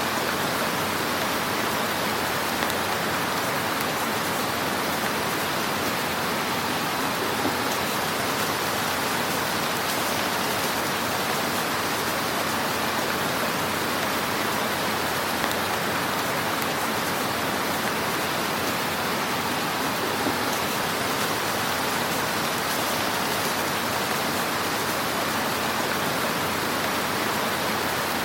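Fire burning in a fireplace: a steady crackling hiss with an occasional slightly louder pop.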